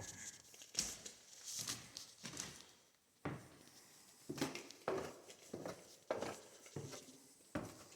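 Footsteps going down a flight of stairs, a string of about a dozen soft, uneven thuds.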